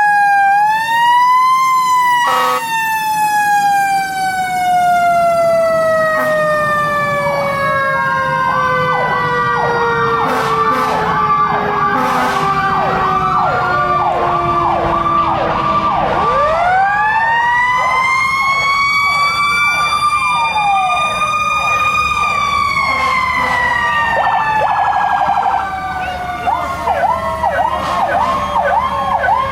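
Fire truck sirens: one siren's pitch slowly winds down over many seconds, then winds back up, holds and falls again, the long coast-down typical of a mechanical siren. Electronic sirens yelp over it at about two sweeps a second.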